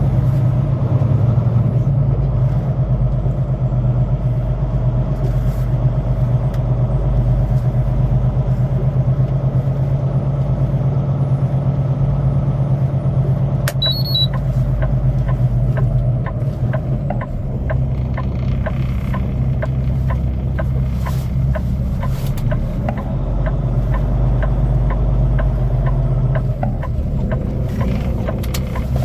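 Semi-truck diesel engine running steadily at low speed as the tractor is maneuvered toward a trailer. In the second half a run of even clicks comes about twice a second over the engine.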